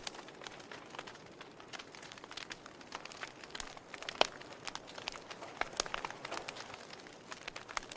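Wood fire in a fireplace crackling, with irregular sharp pops and snaps over a soft hiss; one louder pop about four seconds in.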